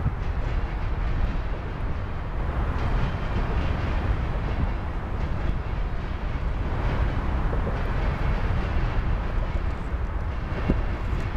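Freight train's covered hopper cars rolling past: a steady rumble of steel wheels on rail, with a sharp clack a little before the end.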